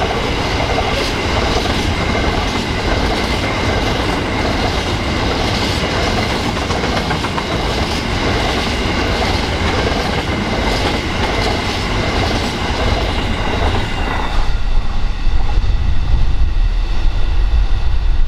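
Grain hopper wagons of a freight train rolling past, wheels clicking over rail joints with a steady high-pitched ringing from the wheels and rails. About fourteen seconds in the last wagon clears and the rail noise falls away, leaving wind buffeting the microphone.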